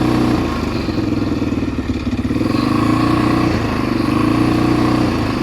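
ATV engine running under the rider, its revs rising and falling, with a brief dip about halfway through before it picks up again.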